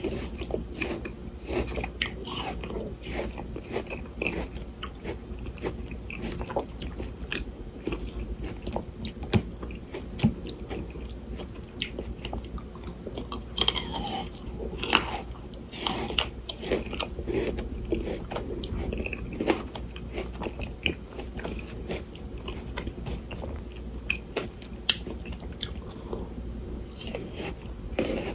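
Close-miked biting and chewing of frozen Shine Muscat grapes: a dense, continuous run of crisp crunches and crackles as the icy flesh breaks.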